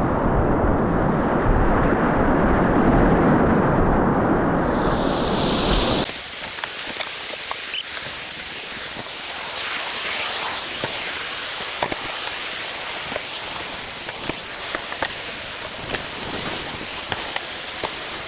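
Rushing whitewater of a mountain river, heard muffled and rumbling for the first six seconds, then cutting abruptly to a bright hiss of rapids with crackling splashes and drops.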